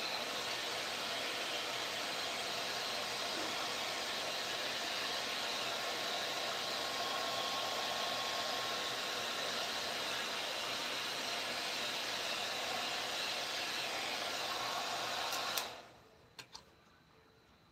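A small motorised tool or blower runs with a steady whooshing hiss, then is switched off abruptly near the end. Two short clicks follow.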